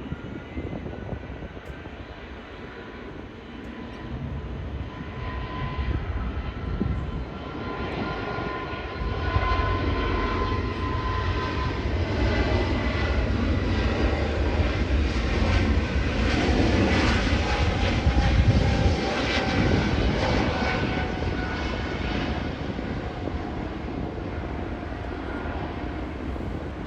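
Jet airliner passing by: its engines grow louder to a peak about two-thirds of the way through, then fade, with whining tones over a low rumble.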